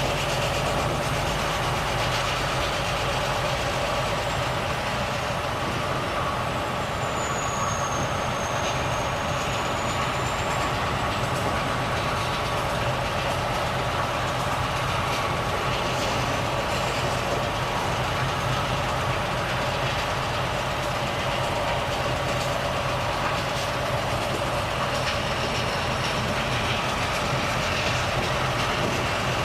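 Volvo FH truck's six-cylinder diesel engine running steadily under way, with even road and tyre noise. A brief high whistle dips and rises about seven seconds in.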